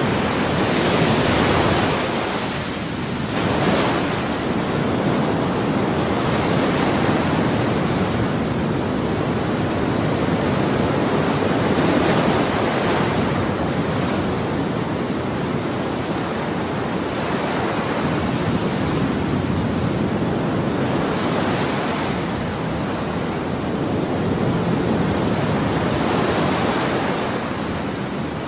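Ocean waves breaking and washing on a shore, a continuous surf noise that swells every few seconds.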